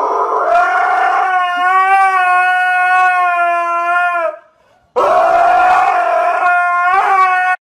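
A husky howling: two long, drawn-out howls with a short break between them. The second howl cuts off abruptly near the end.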